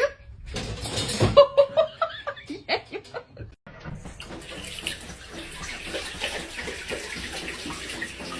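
Running water splashing, as a tap fills a tub, after a cut. Before the cut, for the first three seconds or so, there is a jumble of short pitched cries and knocks.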